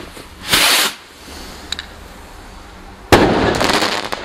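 Fireworks going off: a short loud whoosh about half a second in, then a sharp bang about three seconds in followed by about a second of crackling.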